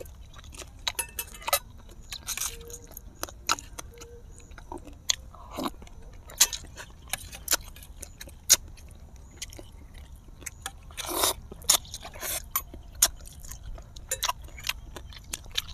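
Two people eating braised fish, heard close through clip-on microphones: chewing and lip-smacking, with many irregular sharp clicks and smacks.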